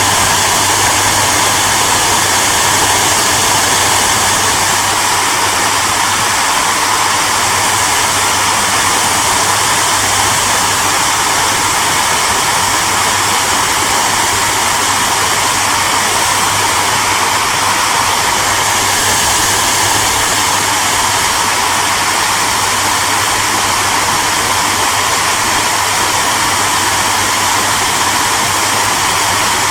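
Hair dryer running steadily: a continuous, even rush of blown air with a low motor hum underneath.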